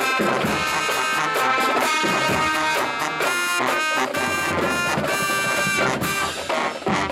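Marching band playing: brass horns sounding held chords over steady drum hits.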